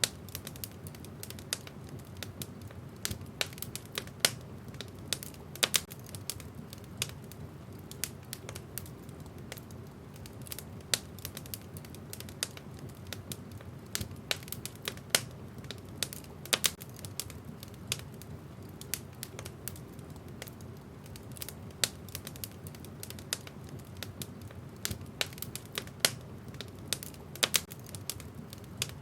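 Wood fire burning in a fireplace, crackling steadily with irregular sharp pops, a few much louder than the rest, over a low steady rush of flames.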